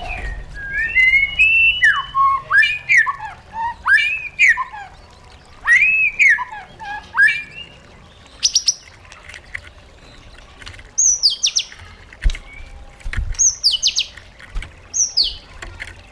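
White-rumped shama singing: rich whistled phrases that swoop up and down in pitch through the first half, then short, high, sharp notes that slide downward, in quick groups, in the second half.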